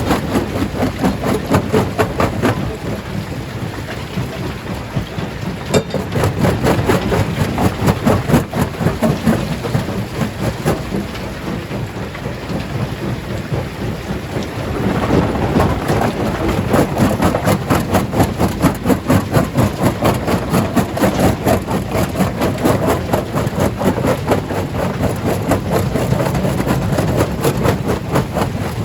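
Stone crusher breaking large rocks: a continuous rumble with a dense, rapid clatter and cracking of stone, getting louder about halfway through.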